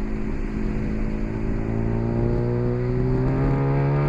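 Race car engine under acceleration, its note climbing slowly and steadily in pitch as it pulls through a gear, heard on board.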